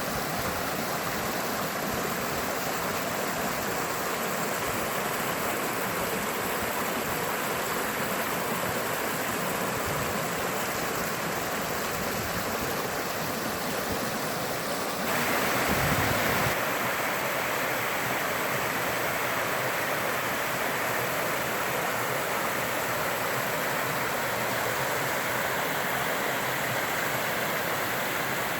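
Running water of a stream flowing steadily. About halfway through the sound turns slightly louder and brighter, with a brief low rumble just after.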